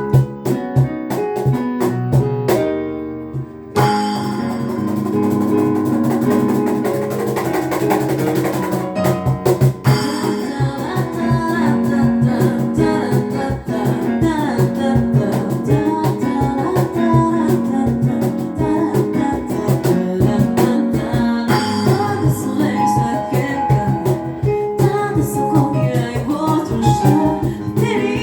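A cappella group singing a pop song in close vocal harmony, with vocal percussion keeping a steady beat. It opens with short, punchy chords and hits, and the full ensemble comes in with sustained harmony about four seconds in.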